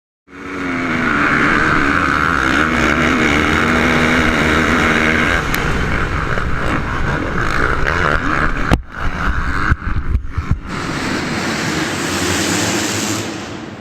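Motocross bike engines running hard at high revs, with wind noise on the microphone. It starts abruptly, and a few sharp knocks and brief dropouts come about nine to ten and a half seconds in.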